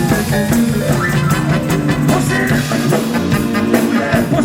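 Live rock and roll band playing, with electric guitar, bass and drum kit keeping a steady beat; a singer comes in with one word a little past halfway.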